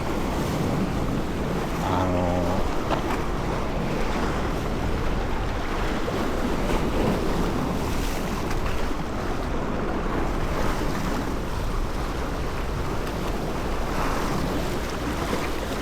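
Steady wind buffeting the microphone over water washing and splashing around a small boat at sea.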